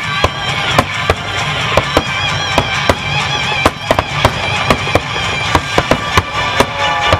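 Aerial fireworks shells bursting in a rapid, irregular string of sharp bangs, over steady music.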